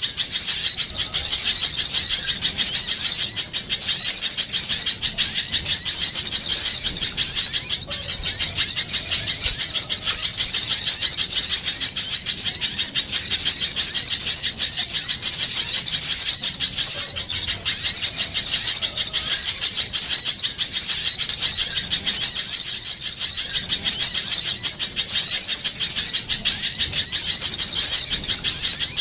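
A dense, continuous chorus of many small songbirds chirping rapidly and high-pitched. It is a bird-lure (pikat) recording of noisy small birds, played to attract wild birds.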